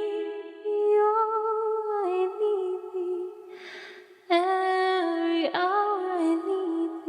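A cappella hymn singing: a woman's voice holding long, slow notes with no instruments. About three and a half seconds in the singing drops away to a breath, then comes back in strongly on a new phrase.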